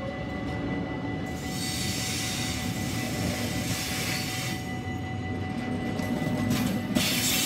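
Freight train rolling past at close range, its wheels running steadily over the rails as tank wagons and then sliding-wall box wagons go by. A sharp knock comes about seven seconds in, followed by a brief louder clatter.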